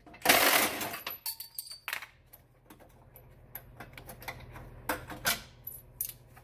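Loose steel bolts and a bumper bracket clinking and rattling as they are handled, with a short loud scraping rush about half a second in.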